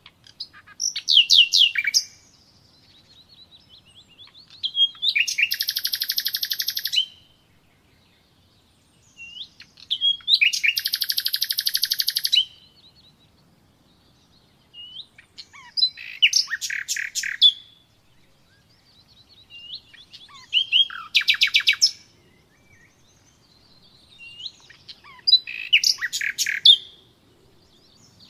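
A songbird singing in separate phrases about every four to five seconds, six in all: quick trills of rapid high notes, with two longer buzzy rattles among them.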